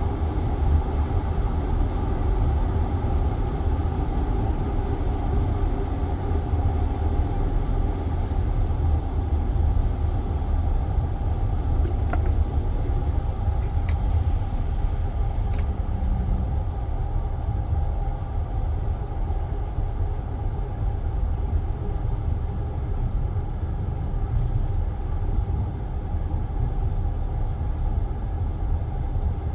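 Passenger train carriage running along the line, heard from inside by the window: a steady rumble of wheels on the rails, with a few faint clicks around the middle.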